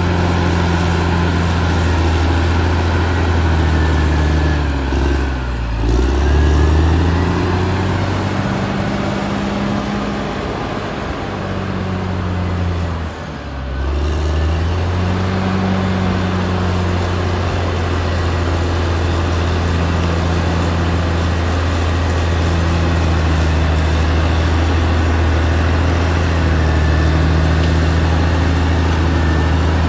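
Caterpillar D6R XL bulldozer's diesel engine running steadily, with a faint higher whine above it. Twice, about five seconds in and again around thirteen seconds in, the engine pitch dips briefly and comes back up.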